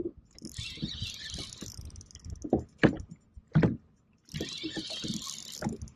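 Fishing reel being cranked in two spells, bringing in a tired hooked fish, with two sharp knocks between the spells.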